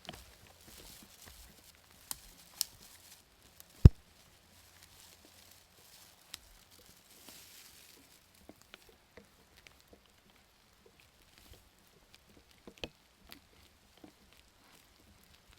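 Scattered, irregular taps of raindrops falling onto a hard surface, with one much louder knock about four seconds in.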